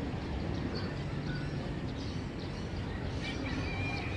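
Morning neighbourhood ambience: a steady low background rumble with scattered small bird chirps over it, and a short held whistle-like call about three seconds in.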